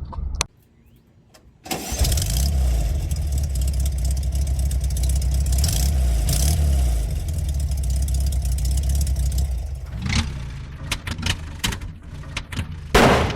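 A car engine starts suddenly about a second and a half in and runs with a steady low rumble. Near the end it drops away among a few sharp clicks, and there is a loud bang just before the end.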